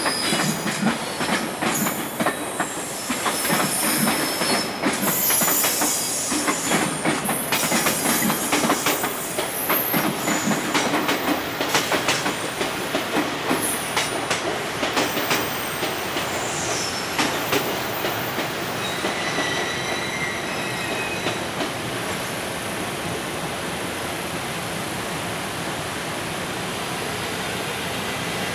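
Container freight train pulling out at low speed: wagon wheels clattering over the rail joints with short high wheel squeals, the clatter thinning to a steadier rumble over the last several seconds.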